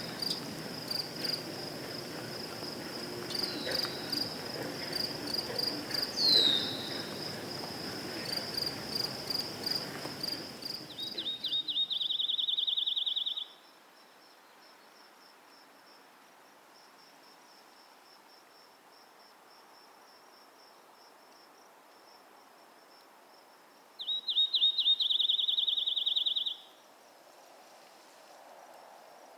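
Crickets chirping in a steady high trill. In the first ten seconds or so a few short falling chirps sound over a background hiss, which then drops away. Twice, about twelve and twenty-five seconds in, a louder buzzing trill starts with a few separate pulses and lasts a couple of seconds.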